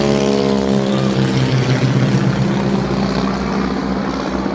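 Aircraft passing overhead: its engine drone falls in pitch as it goes by and fades after about a second and a half, leaving a steady rushing roar.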